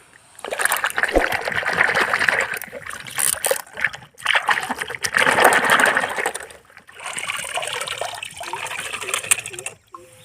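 Water splashing and trickling in three spells of a few seconds each, with short breaks between them.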